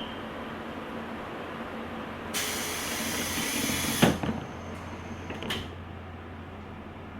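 Pneumatic door on the deck of a JR Kyushu 883 series train closing: a rush of compressed-air hiss for about two seconds, then the door shutting with a sharp thud about four seconds in, and a lighter click a second and a half later. A steady low hum of the train runs underneath.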